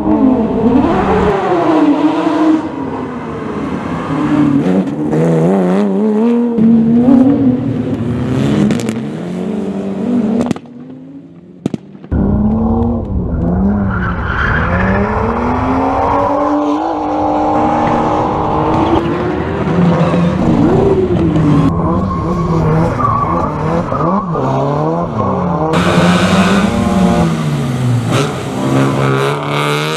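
Rally car engines revving hard, the pitch climbing and dropping again and again with gear shifts and lifts off the throttle, with some tyre squeal. The sound drops away briefly about ten seconds in, then the engines pick up again.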